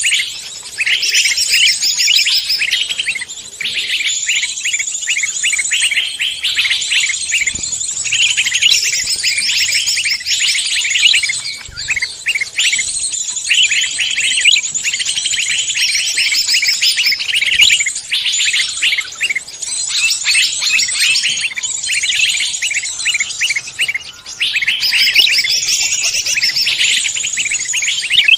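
Dense chorus of many forest songbirds chirping and trilling over one another, a mixed-species recording used as a lure call for songbirds. The calls are high-pitched and rapid, with short lulls around a third of the way in and again near the end.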